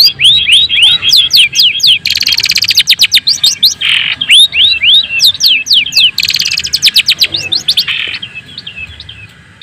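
Long-tailed shrike (white-breasted "cendet daput") singing a rapid stream of sharp down-slurred whistles, broken twice by fast buzzing rattles and by harsh rasping notes. The song fades away near the end.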